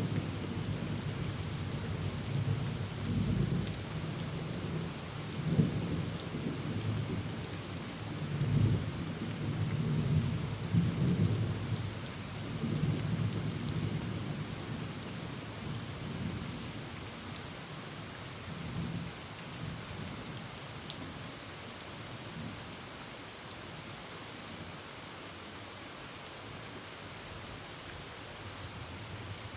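Heavy rain falling steadily on a tin roof while thunder rumbles in rolling waves, loudest about ten seconds in and dying away by about halfway.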